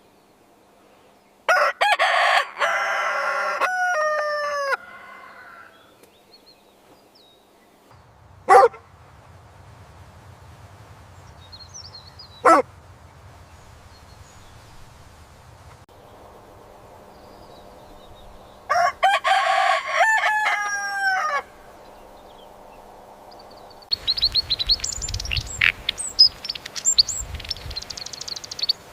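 Rooster crowing twice, about fifteen seconds apart, each crow ending in a falling, drawn-out note. Two short sharp sounds fall between the crows, and quick high bird chirps fill the last few seconds.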